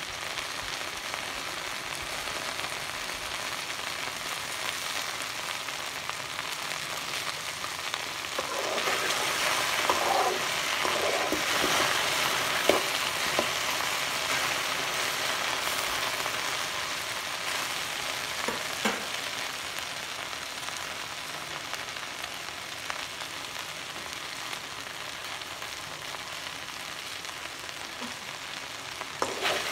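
Ladies finger (okra) sizzling as it dry-fries in a pan: a steady frying hiss that grows louder about a third of the way in, with a few light knocks as it is stirred.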